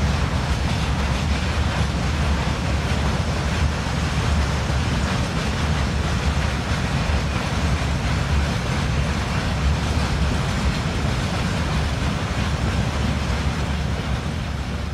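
Long freight train of open wagons rolling past, a steady noise of wagon wheels running on the rails.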